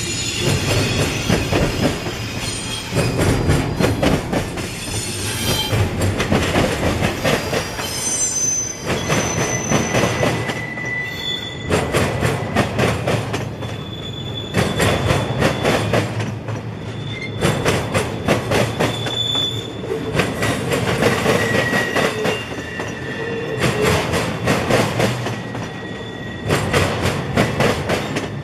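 Freight train rolling past close by, its wheels clattering in rapid clusters of clicks. Metal wheels squeal on the rails in thin high tones that come and go, strongest about halfway through.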